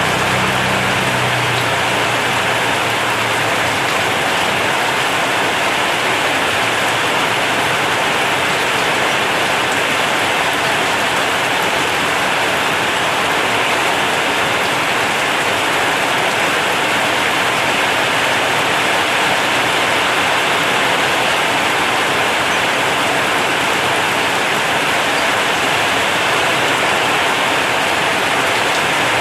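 Heavy rain drumming steadily on a corrugated zinc roof, a dense, even hiss of drops.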